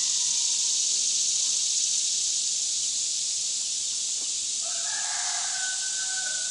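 A rooster crowing, one long drawn-out crow starting past halfway through, over a steady high-pitched hiss that runs throughout.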